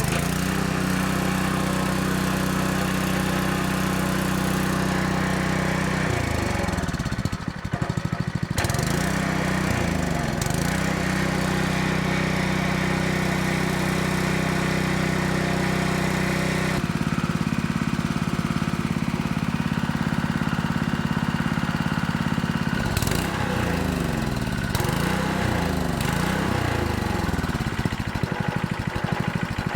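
Honda GX200 single-cylinder engine on a 3-inch water pump starting and running after carburettor work. Its speed sags and picks back up several times, a few seconds in and again near the end: the engine will only run on full choke, a sign of a carburettor fault still not cured.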